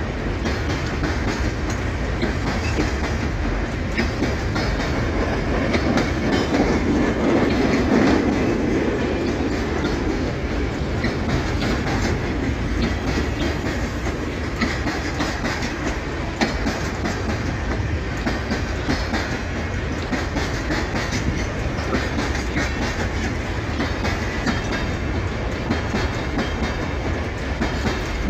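Empty freight train rolling past, its wheels clicking over the rail joints; the sound swells louder about six to ten seconds in.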